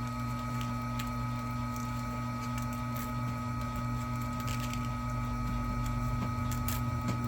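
Vevor electric wire stripping machine's motor running steadily: a low hum with a constant high whine, and a few faint ticks as the wire feeds through.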